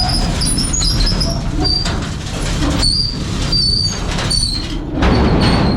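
Hooklift truck running with a steady low rumble, while short high-pitched squeaks come again and again over it. A louder rush of noise comes about five seconds in.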